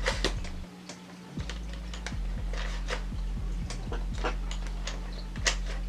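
Irregular plastic clicks and taps as foam Rival balls are handled and pushed into the blaster's loading door, over a steady low hum.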